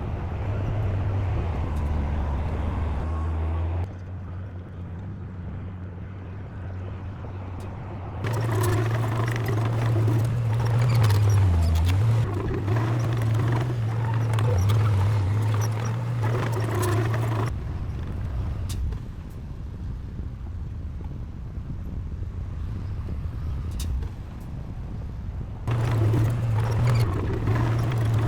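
Heavy diesel engine of earthmoving machinery running with a steady low drone. Its load and loudness shift in sudden steps, louder through the middle and near the end, with a brief drop in pitch about twelve seconds in.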